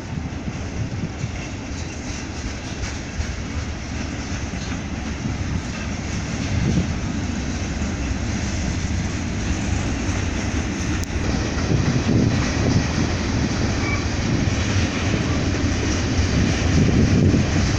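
Freight cars of a mixed train (autoracks, covered hoppers, gondolas) rolling past: a steady rumble of steel wheels on rail with clickety-clack over the joints, growing a little louder near the end.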